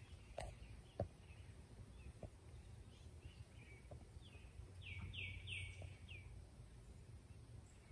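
Quiet outdoor ambience with faint songbirds chirping: scattered soft chirps, then a run of four quick falling notes about halfway through. A faint click about a second in.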